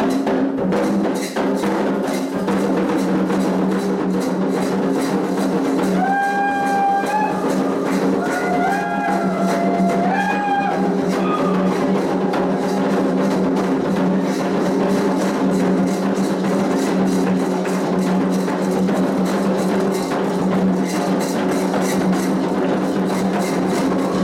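Candomblé ritual music: drums and percussion keep up a fast, even beat under steady sustained tones. A melodic line rises above them about six seconds in and lasts some five seconds.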